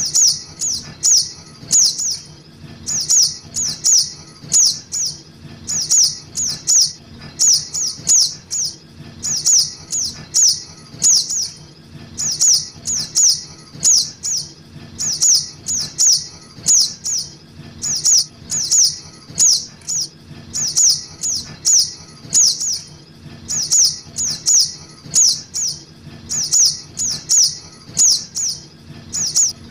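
Juvenile crimson sunbird (sogok ontong) calls used as a trapping lure: high, thin chirps that slide downward, in quick runs of three or four, repeating about once a second.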